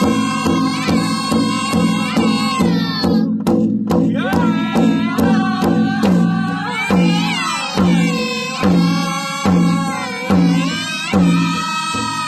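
Powwow drum group singing in unison, children's voices among them, over a steady beat on the drum. The singing breaks off briefly about three seconds in while the drum keeps time, then comes back.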